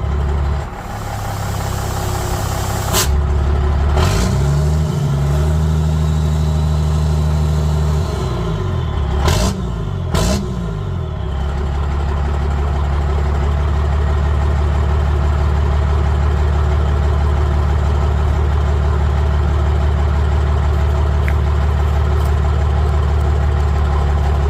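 5.9 12-valve Cummins turbo-diesel running through a 4-inch straight pipe with a turndown, idling with a deep tone. About four seconds in it is raised to a higher speed and held, then blipped twice and let back down to a steady idle, with a faint turbo whistle rising and falling while it is revved.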